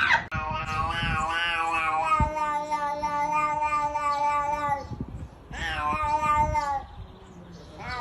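Cat yowling: one long, wavering, drawn-out call lasting about four and a half seconds, then a shorter one, and a third beginning near the end.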